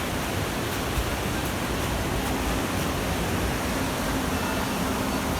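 Storm wind and breaking surf making a steady, unbroken noise, with wind rumbling on the microphone.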